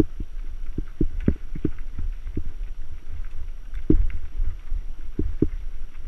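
Mountain bike jolting over rough ground: irregular sharp knocks and rattles over a steady low rumble.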